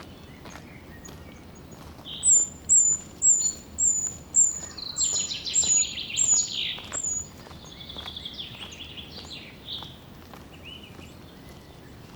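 A songbird singing: a run of about nine short, very high notes, about two a second, over a lower fast trill, then a softer trill. Faint footsteps run underneath.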